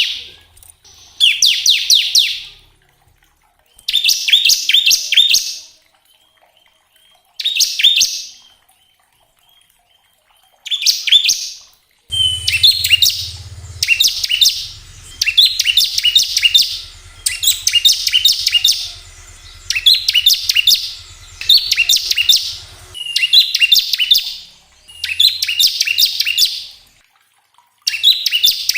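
Bar-winged prinia (ciblek) singing in fast rattling 'ngebren' bursts, each a second or two of rapid, high repeated notes. The bursts are spaced by long pauses at first, then follow almost one after another from about halfway through.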